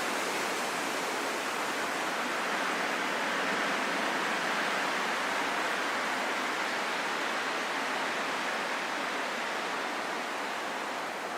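Calm, steady wind: an even rushing hiss with no gusts or whistles, swelling slightly a few seconds in and easing a little near the end.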